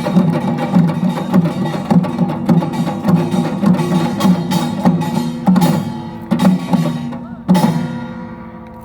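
Samulnori percussion ensemble of small gong, large gong, hourglass drum and barrel drum playing a fast, even rhythm. About five and a half seconds in it breaks into a few widely spaced strokes together, and then the sound rings out and fades.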